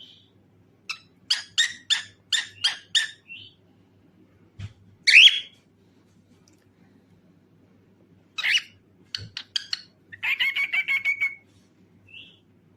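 Cockatiel calling: a run of about eight quick, sharp chirps, then a single loud call, then a few more chirps and a rapid warbling trill near the end.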